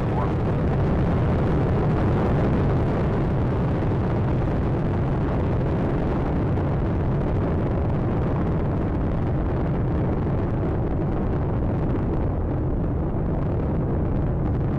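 Space Shuttle Atlantis's rocket engines during ascent: a steady, deep noise, heaviest in the low range, with no pauses or separate blasts.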